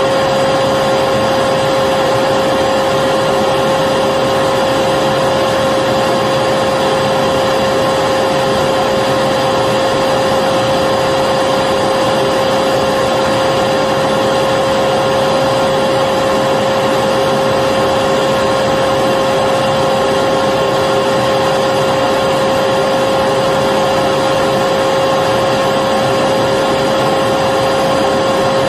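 Electric vacuum cleaner running continuously, a steady unchanging whine with a strong hum over its rushing air.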